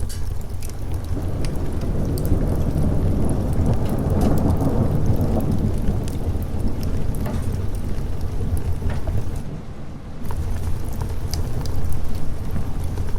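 Steady rain with a roll of thunder that swells about four seconds in and slowly dies away, over a constant low rumble. Scattered sharp clicks sound throughout, and the whole sound dips briefly near the ten-second mark.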